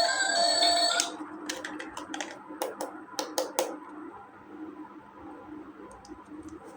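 Background music stops about a second in. A quick run of about a dozen sharp clicks and taps follows, from small hard plastic toy parts being handled, then only a few faint ticks.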